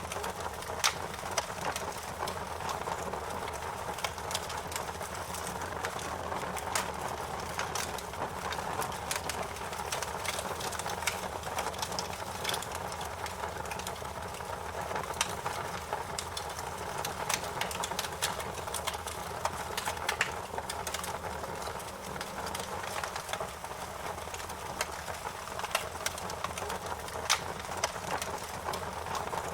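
Wood fire burning with a steady low rush of flames and irregular sharp crackles and pops.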